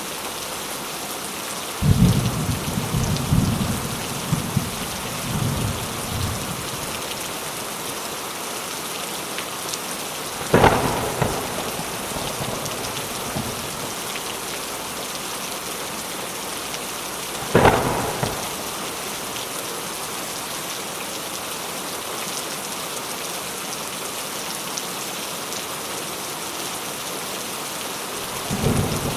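Steady rain falling, with thunder: a low rolling rumble a couple of seconds in, two sharp thunderclaps in the middle about seven seconds apart, and another rumble starting at the very end.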